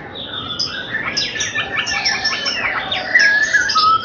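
Young white-rumped shama (murai batu) singing a rapid, varied run of sweeping whistles and chirps.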